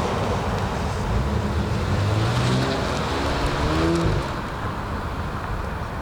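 Car engine accelerating, its pitch climbing for a couple of seconds, then dropping off abruptly about four seconds in.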